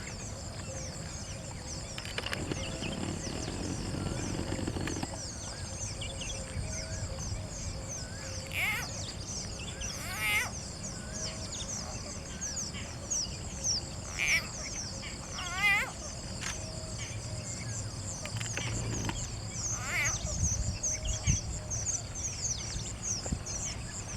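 Wetland ambience: a steady, high-pitched insect buzz throughout, with birds giving short calls every few seconds.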